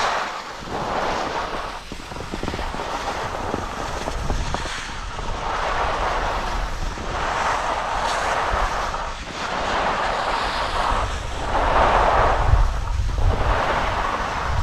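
Skis scraping and hissing over packed snow through a series of turns, each turn a swell of hiss about every two seconds, with wind rumbling on the microphone.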